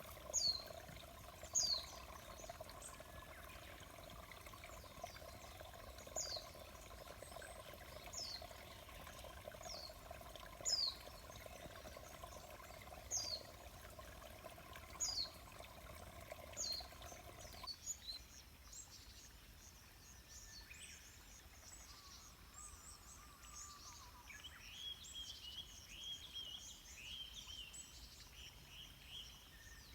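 A bird repeats a short call that falls in pitch, about once every one and a half to two seconds, over a steady low background sound. About two-thirds of the way in the steady sound cuts off and a busier chorus of chirping birds takes over.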